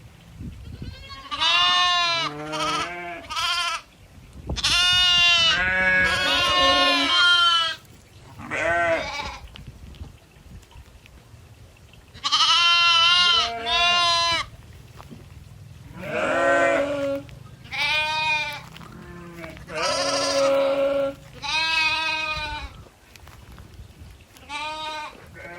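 Goats bleating again and again: about ten quavering calls, some long and some overlapping, with short pauses between them.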